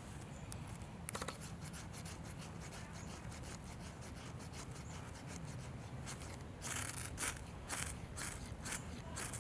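Outdoor campfire crackling with small scattered ticks, a quick run of clicks about a second in, then a run of short scraping rubs in the last three seconds.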